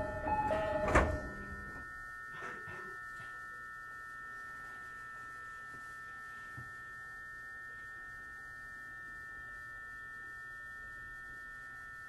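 The door chime of a 209 series electric train ends with the thunk of the doors about a second in. After it a steady electrical whine of several close high tones comes from the train's equipment while it stands, with a couple of faint knocks.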